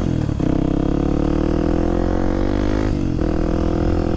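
Kawasaki KLX300SM supermoto's single-cylinder four-stroke engine pulling under acceleration, its pitch rising steadily through a gear with short breaks and drops in pitch near the start and about three seconds in, as the rider shifts up.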